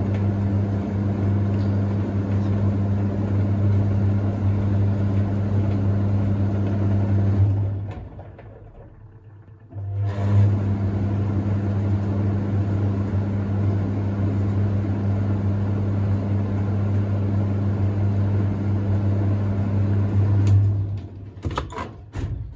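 Hoover Ecologic D6722 reversing tumble dryer running, a steady motor hum with the drum turning, and smooth. About eight seconds in the motor stops for two seconds and starts again, the drum reversing direction. Near the end it stops again, followed by a few clicks and knocks.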